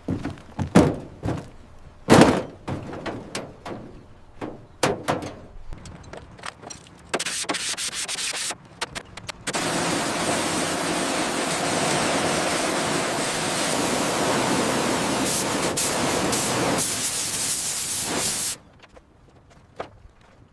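Restoration work on an aircraft: scattered knocks and taps, then about nine seconds of steady sanding noise that stops abruptly.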